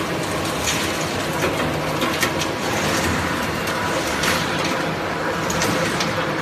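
Industrial shredder for scrap cans and used tyres running with a steady motor hum. Irregular sharp cracks and crunches come through as material is broken up in the cutters.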